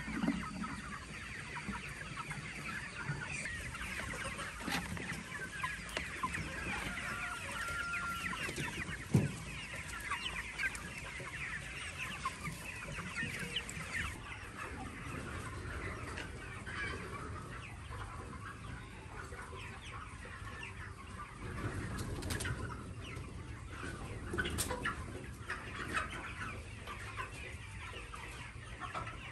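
Many chickens clucking and calling over one another without pause, with a few sharp knocks among them.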